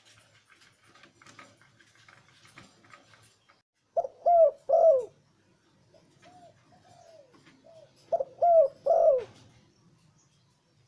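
Male zebra dove cooing: two phrases of short, rapid coo notes about four seconds apart, each led by three loud notes, with softer trailing coos between them. Faint scratchy ticks come before the first phrase.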